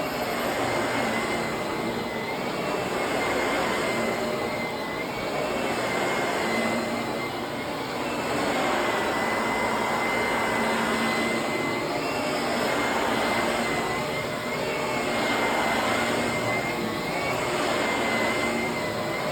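Vacuum cleaner running steadily with a high motor whine, its sound swelling and easing every couple of seconds.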